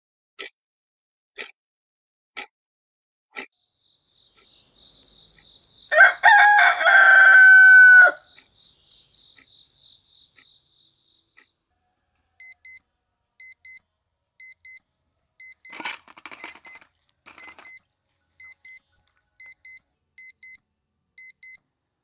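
A wall clock ticking once a second, then a fast high-pitched pulsing sound with a rooster crowing loudly over it about six to eight seconds in. After that a smartphone alarm beeps in short pairs, steady and repeating, with a brief rustle of bedding partway through.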